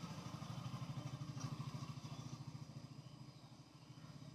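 A small engine or motor running steadily, a faint low drone with a fast, even throb that fades slightly near the end.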